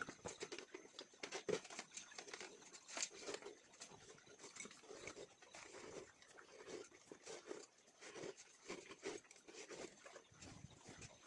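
Chickens moving about in a coop: many quick pecking and scratching taps, with short soft low calls.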